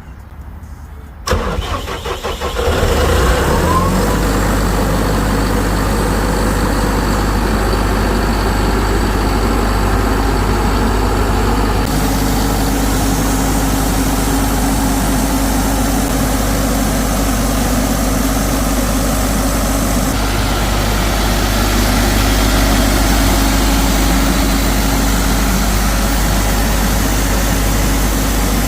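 Atlas Copco XAVS 375 portable air compressor's John Deere 4045 four-cylinder diesel engine being cranked by its starter. It catches within a couple of seconds, then settles into a steady idle.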